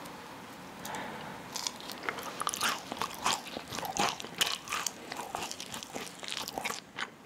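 Someone biting into and chewing a baked yakgwa (Korean honey pastry), a rapid run of crisp crunches that starts about a second and a half in and stops just before the end.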